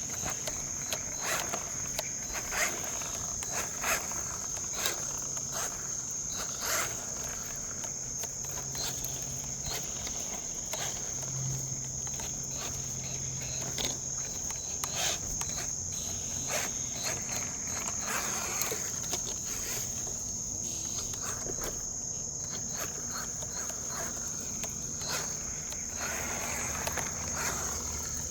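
Crickets chirring in a steady, high, unbroken tone, with scattered light clicks and taps over it.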